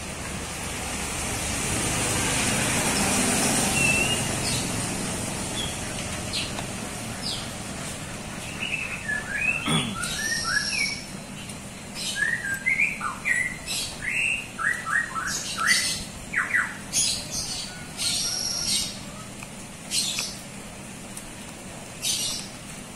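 A vehicle passing by, its noise swelling and fading over the first few seconds. Then, from about nine seconds in, a bird chirping over and over in short, quick calls.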